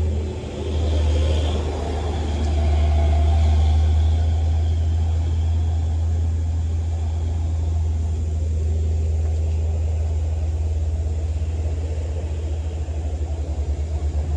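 Low, steady rumble of a vehicle engine, pulsing more quickly toward the end and cutting off suddenly.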